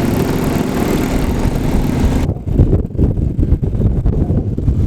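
Off-road vehicle engine running steadily close by. A little over two seconds in, the sound changes abruptly and leaves an uneven low rumble.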